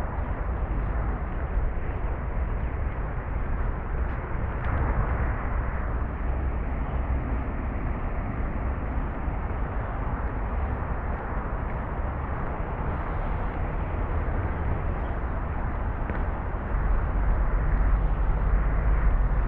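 Steady outdoor rumble and hiss with no distinct events, heavy in the low end, growing louder near the end.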